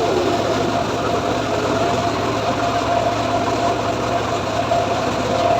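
Engine of a homemade wood-cutting saw rig idling steadily, a constant drone with an even high-pitched hum over it.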